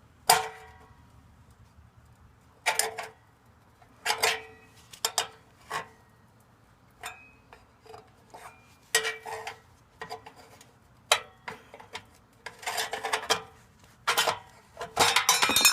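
Flathead screwdriver working at the drilled-out rivets on a Vulcan 900 motorcycle's chrome muffler: irregular metallic clinks and scrapes with short ringing, getting busier near the end.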